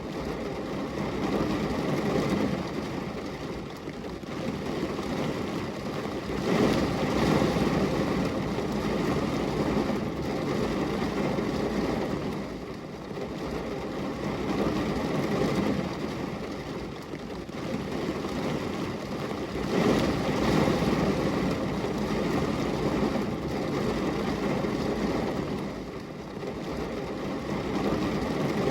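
Steady rain on a glass window: a dense, even rush weighted toward the low end, with no separate drops standing out. It swells louder twice, about seven and twenty seconds in.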